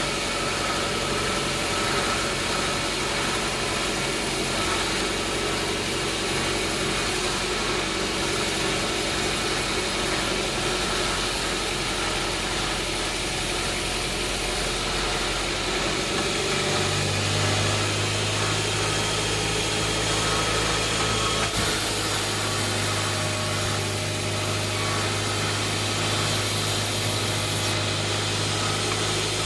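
Sawmill machinery running steadily, with a deeper hum joining in a little over halfway through.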